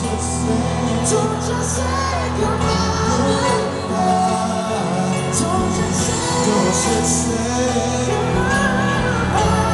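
Live pop ballad from a band on stage: steady sustained bass and keyboard notes under singing.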